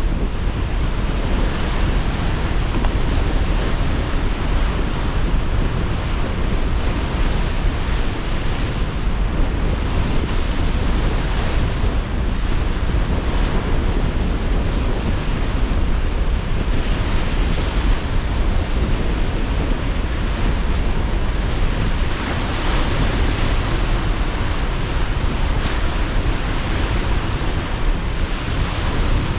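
Sea surf breaking on the shore under strong, gusting wind, a steady dense rush with the heaviest energy low down and no clear pauses between waves.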